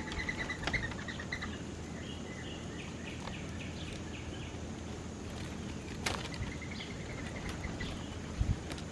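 Small birds chirping in short repeated runs of quick notes over a steady outdoor background noise, with a sharp click about six seconds in and a low thump near the end.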